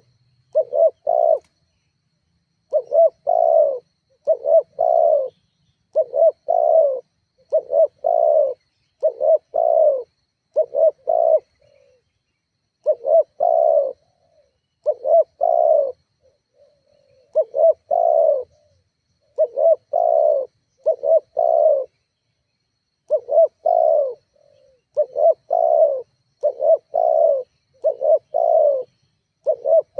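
Spotted dove (tekukur) cooing over and over in short phrases of two or three low notes, each phrase a second or so long, with brief pauses between them and a longer gap twice.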